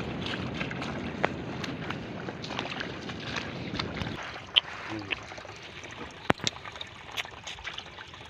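Wind rumbling on the microphone and water at the shore, with a few sharp clicks; the rumble drops away about four seconds in.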